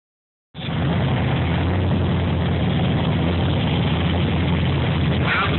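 Ford Mustang engine idling steadily with a low rumble, on its first run after more than a year sitting.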